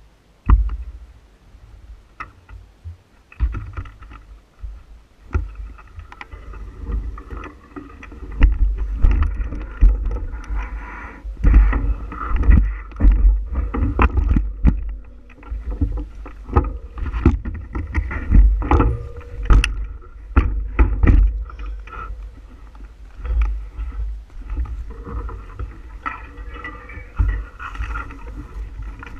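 Bicycle jolting over a rough trail: frequent rattles and knocks from the bike, over a gusting low rumble of wind buffeting the microphone.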